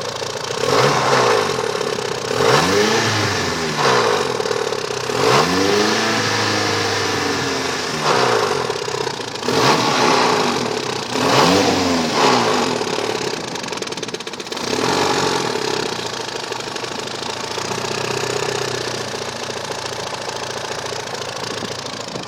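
Mitsubishi 4G63 engine in an Eagle Talon, revved up and down several times over the first fifteen seconds or so, then settling to idle. It carries a noise that came on suddenly and that the owner takes for the timing belt, something in the top end.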